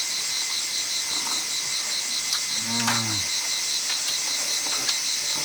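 Steady, high, evenly pulsing buzz of insects, with one short, low, drawn-out call about halfway through.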